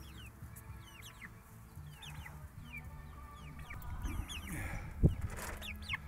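Backyard hens clucking and chirping in a run of short, falling calls as they scramble after a beetle, with one loud thump about five seconds in.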